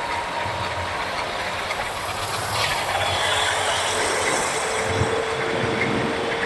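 Motorcycle riding through city traffic: steady road and wind noise, with a faint steady tone coming in past the middle.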